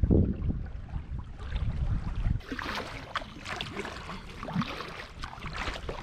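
Wind buffeting the microphone with a low rumble, then from about two and a half seconds in, water splashing and sloshing around a small paddled boat as it is paddled through rough water.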